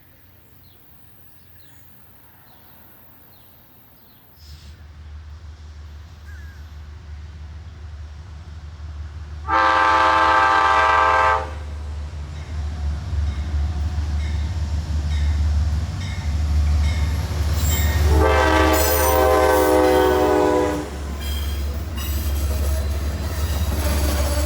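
Amtrak train coming in: a low locomotive rumble starts about four seconds in and grows louder, and the horn sounds twice, a blast of about two seconds near the middle and a longer one of about three seconds later.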